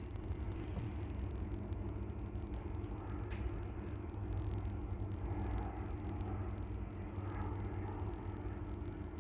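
Freight train wagons rolling past close by: a steady rumble with a low hum and faint clicking from the wheels on the rails.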